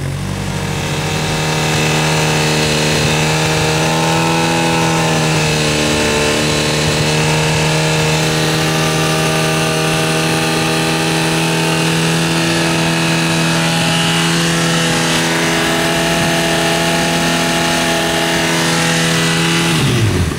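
Honda CB1000R's inline-four engine through a DAM aftermarket exhaust with its noise-killer insert, run up and held at steady raised revs, as for a static decibel test. The revs climb in the first second or so, waver slightly once, and drop back quickly near the end.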